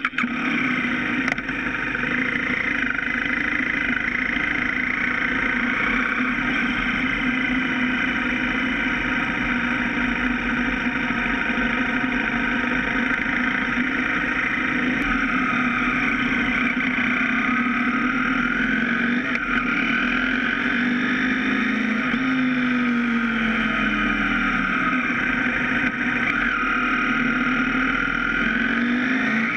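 BMW F650 GS motorcycle engine running as the bike rides, with its pitch falling and rising a few times in the second half.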